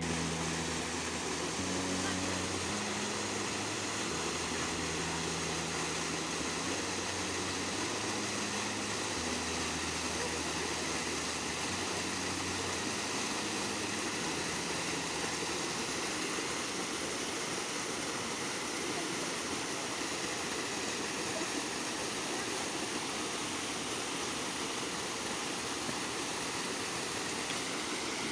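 Steady rush of flowing water from a forest stream or waterfall. Low sustained music notes run beneath it and stop about halfway through.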